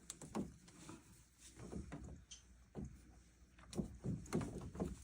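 Faint scattered clicks and light knocks from hand work on plastic PEX pipe and fittings, several small handling sounds spread unevenly.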